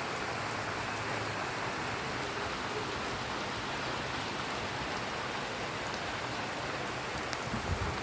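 Heavy rain falling steadily, an even hiss of rain on surfaces, with a few soft low thumps near the end.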